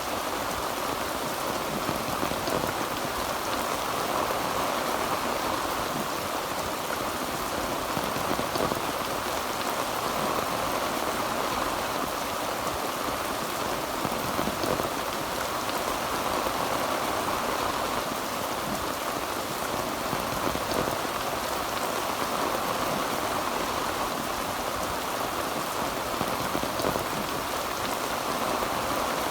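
Heavy rain pelting a tin roof: a steady, dense patter of drops with no thunder.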